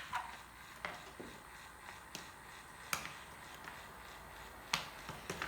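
A few sharp, scattered clicks and taps of plastic toy pieces being handled.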